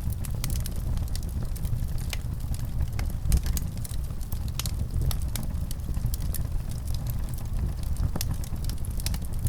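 Wood fire in a fireplace crackling, with frequent small irregular pops over a low steady rumble.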